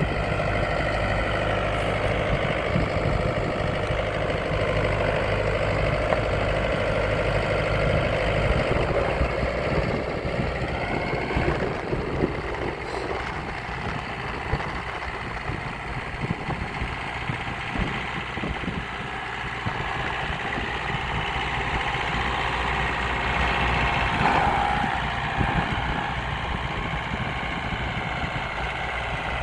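Kubota M4-071 tractor's four-cylinder turbo-diesel engine idling steadily, its note shifting slightly about ten seconds in.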